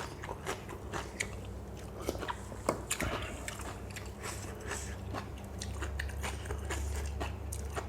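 Close-up chewing and biting of crunchy food, the spicy lotus-stem salad with fresh shrimp: irregular crisp crunches and wet mouth clicks, with a low steady hum underneath that grows a little louder near the end.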